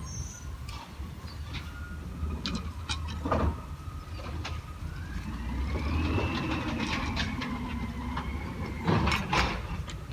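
Garbage truck's diesel engine running under load with a hydraulic whine that rises about halfway through and then falls away, as the lift or packer works. Sharp metallic clanks break in, the loudest a cluster near the end.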